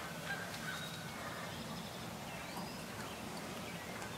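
Faint bird calls over quiet outdoor background hiss: a thin held call near the start and a few short gliding chirps around the middle.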